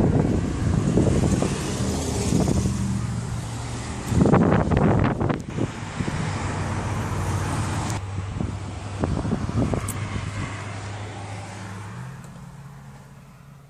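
A car engine idling with a steady low hum, with wind gusting over the microphone, heaviest about four seconds in. A few light clicks come later, and the hum steps up slightly and fades near the end.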